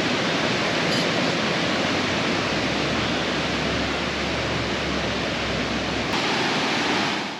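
Steady rush of a fast, swollen river, a loud even roar of water that cuts off suddenly at the very end.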